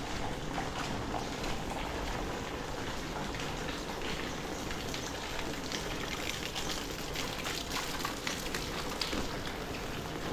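Heavy rain falling steadily, with many small drops spattering on surfaces close by.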